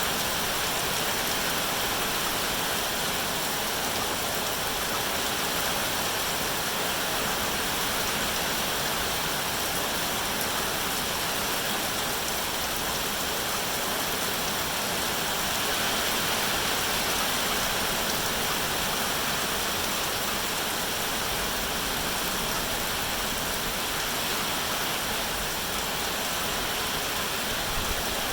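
Steady heavy rain, a continuous even hiss of falling water.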